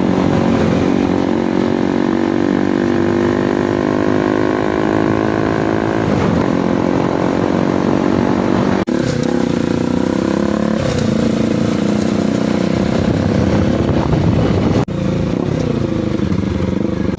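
Dirt bike engines running loud and revving during an off-road race, rising and falling in pitch as the bikes accelerate and ease off. The sound breaks off abruptly about 9 and 15 seconds in.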